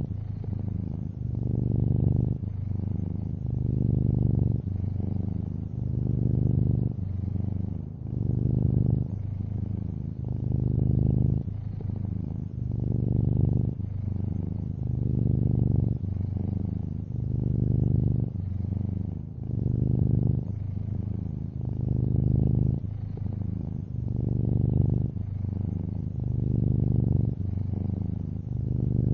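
Long-haired orange tabby cat purring steadily, the low rumble swelling and easing about every two seconds as it breathes in and out.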